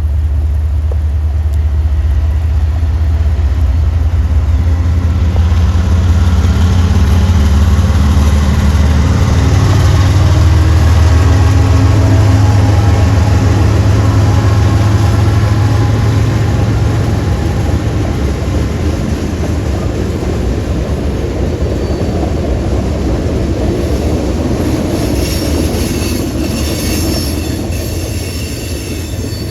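Norfolk Southern diesel freight train passing: the locomotives' engine drone builds to its loudest about midway and then fades, leaving the rolling of the cars, with high-pitched wheel squeal starting near the end.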